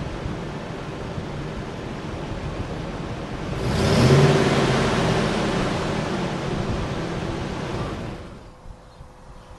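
Engine of a Ford Expedition 4x4 running on its first start after an engine swap. It revs up sharply about four seconds in and is shut off suddenly near the end.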